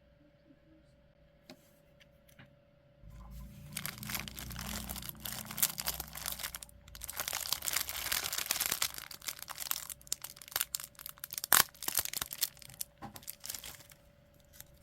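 Packaging crinkling and tearing as it is handled and opened, starting about three seconds in and going on until near the end, with a short pause in the middle and a sharp snap near the end.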